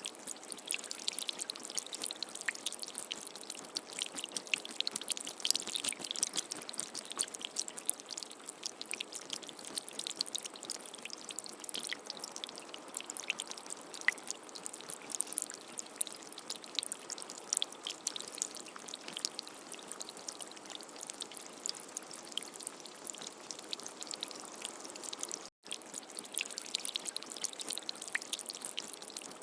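Steady rain falling, a dense patter of many small drops. It cuts out for an instant about three-quarters of the way through, then carries on.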